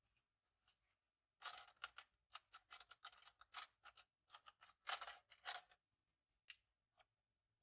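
Paper being handled close to the microphone: a dense run of crisp crinkles and rustles from about a second and a half in to about six seconds, then a few scattered ticks.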